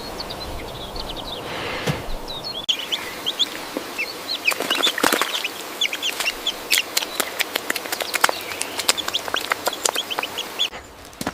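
Chickens calling: a busy run of short, high chirps with scattered sharp clicks, thickening a couple of seconds in.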